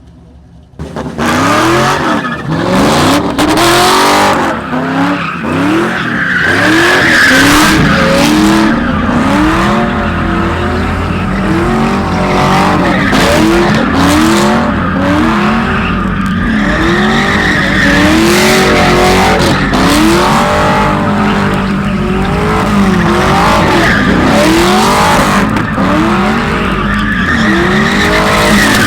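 Ford Mustang drifting in circles, its engine revving up and falling back about once a second while the tyres squeal and skid. It starts suddenly about a second in.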